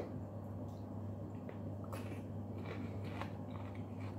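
Faint chewing and small mouth clicks of someone eating, with a few soft ticks scattered through, over a steady low hum.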